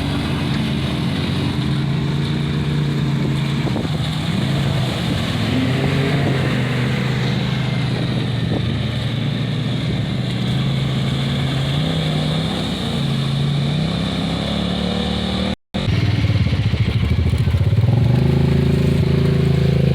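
ATV engine revving under load, its pitch stepping up and down again and again. The sound cuts out for a moment about three-quarters of the way through.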